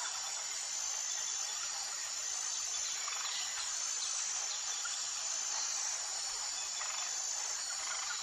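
Tropical jungle ambience: a steady, high-pitched drone of insects over a constant hiss, with a few faint, scattered bird calls.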